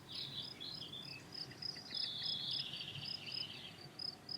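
Crickets chirping faintly in a regular pulse of a few chirps a second, with a lower, rapid chirping trill in the middle.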